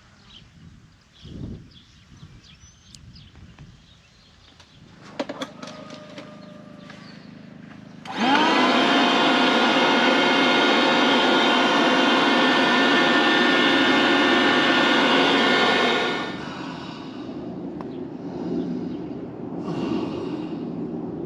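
A small electric motor spins up about eight seconds in, runs steadily at one pitch for about eight seconds, then winds down. Faint clicks and knocks come before it.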